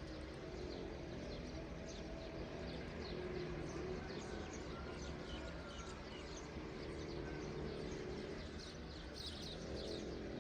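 Small songbirds chirping: many short, high chirps in quick, overlapping succession, busiest about nine seconds in, over a steady low background.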